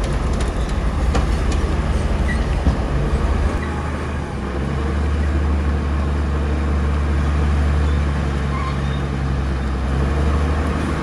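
Bulldozer's diesel engine running steadily under work, its low note changing about three and a half seconds in.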